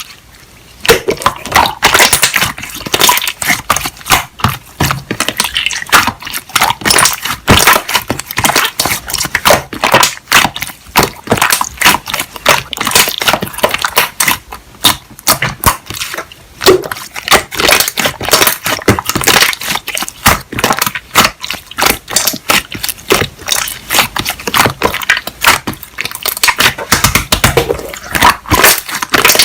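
Slime being squeezed and pressed by hand, giving a continuous run of wet, sticky clicks and pops, several each second.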